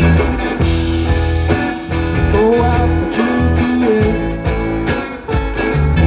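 Live band playing a bluesy rock tune: electric guitar over bass and drums, with a steady beat.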